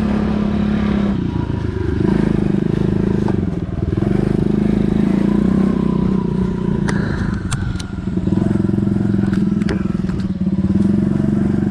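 Pit bike engine running as it is ridden on a dirt track, its note dipping briefly about three times as the throttle eases off. A few rattling clicks come about two-thirds of the way through.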